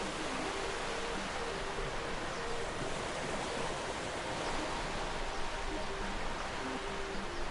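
Sea waves washing steadily on a shore, an even, unbroken rush. Faint, slow notes of a soft melody sound over it.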